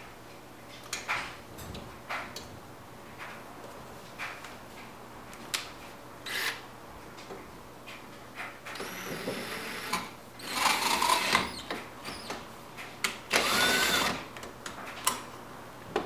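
A cordless drill/driver running screws in, in two short runs about ten and thirteen seconds in, among scattered clicks and knocks of handling.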